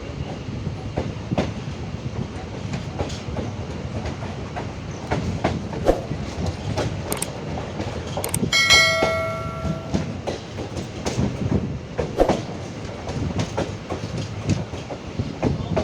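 Passenger train running on the track: a steady rumble with the clickety-clack of wheels over rail joints. A little past halfway, a brief metallic ringing tone sets in suddenly and fades.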